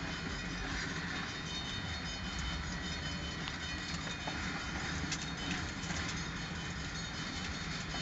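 Freight train of tank cars and covered hoppers rolling steadily past a grade crossing: the continuous rumble and clatter of steel wheels on rail, heard from inside a car.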